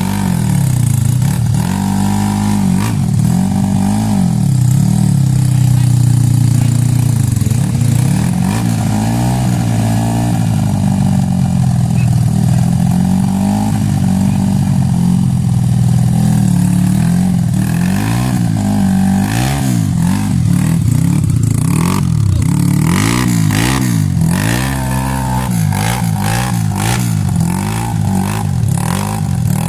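Trail motorcycle engines revving hard and easing off again and again, the pitch swinging up and down every second or two, as the bikes labour up a steep, slippery hill climb. In the second half the revs come quicker and choppier, with scattered clattering knocks.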